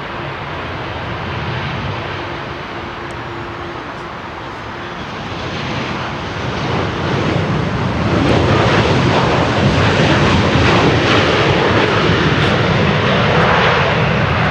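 Jet engine noise from a Boeing 737-800's CFM56 turbofans, a steady rushing sound with a faint hum at first, swelling much louder about six to eight seconds in and then holding loud.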